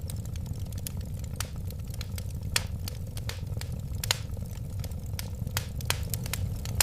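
Wood fire burning: irregular sharp crackles and pops, a few louder ones about every second and a half, over a steady low rumble.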